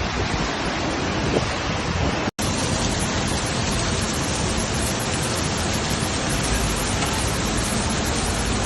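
Steady rushing noise of a storm, cut off for an instant a little over two seconds in where one clip gives way to the next.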